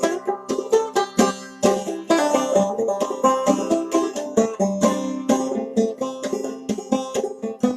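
A solo clawhammer banjo playing an old-time tune instrumentally, with quick plucked notes over ringing open strings.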